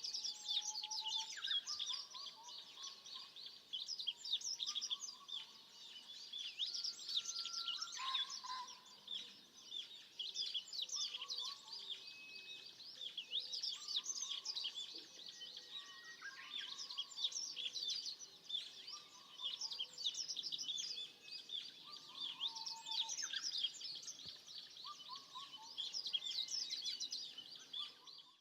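A chorus of wild songbirds: many quick, high chirps and trills overlapping without pause, with a lower whistled phrase of a few short notes repeating about every two to three seconds.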